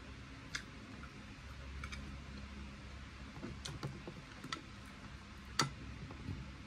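Scattered soft clicks and smacks of someone eating chicken wings with sweet and sour sauce, chewing with the mouth closed, over a low steady hum. The sharpest click comes a little past halfway.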